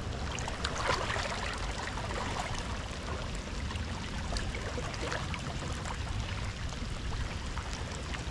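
Steady rain with wind rumbling on the microphone, and many small scattered drop ticks throughout.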